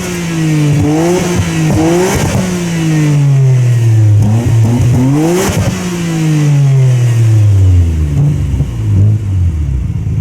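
Nissan Skyline GT-R (R33)'s RB26DETT twin-turbo straight-six through a REIMAX all-stainless exhaust system, being revved: quick blips about one and two seconds in, a longer rev peaking about five and a half seconds in, then the revs falling slowly and settling to a steady idle near the end.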